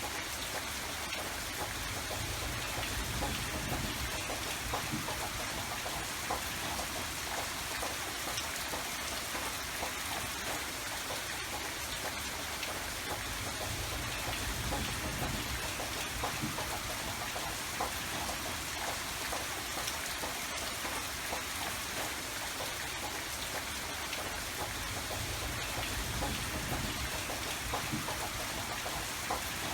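Steady rain falling, a dense patter of individual drops over a continuous hiss, with a low rumble that swells and eases a few times.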